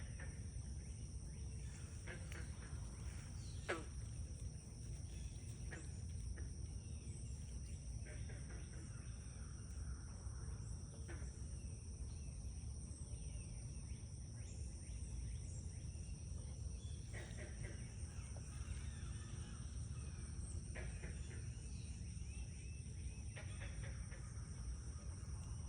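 A chorus of frogs and insects: an unbroken high-pitched trilling drone with short scattered calls over it, on top of a low outdoor rumble.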